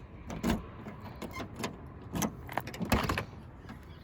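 A series of irregular knocks and clunks, about half a dozen, the loudest near the end, over a low steady rumble.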